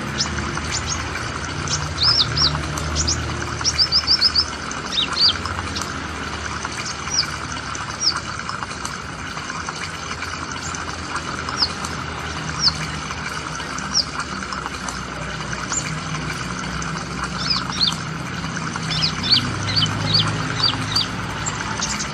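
Small bird chirping: high, thin, downward-sweeping notes in quick runs of three to five, with single notes between. A steady hiss runs underneath.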